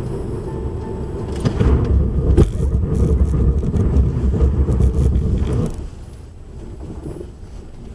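Road and engine noise of a car in motion: a steady low rumble that swells for a few seconds, with several sharp knocks and clatters, then drops away suddenly a little under six seconds in.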